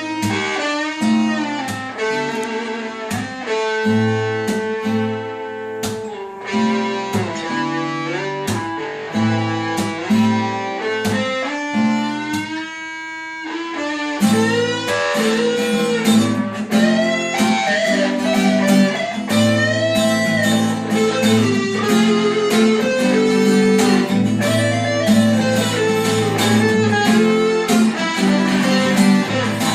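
Improvised guitar playing: a melodic line of sustained notes with bends and vibrato over steady repeated low bass notes, easing off briefly about halfway through before picking up again.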